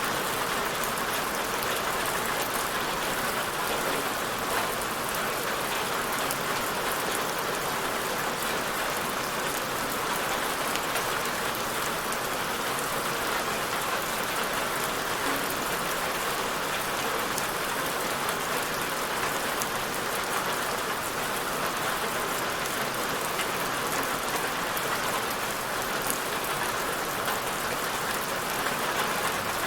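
Steady rain falling, an even hiss of many drops on a surface, unchanging throughout.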